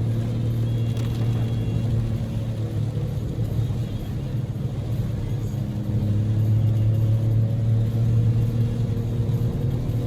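Cabin drone of a Daihatsu Move L150S's 660 cc three-cylinder EF-VE engine and road noise while driving, with the engine note shifting slightly about six seconds in.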